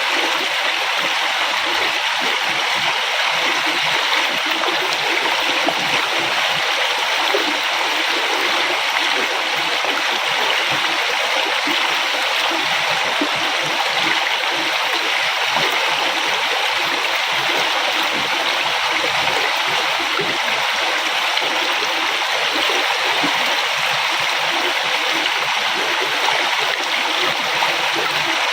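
River water flowing steadily over rocks, a constant rushing hiss with small gurgles and splashes.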